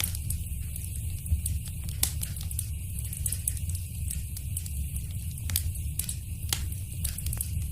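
Wood fire in a fireplace crackling, with scattered sharp pops over a steady low rumble. The loudest pops come about two, five and a half, and six and a half seconds in.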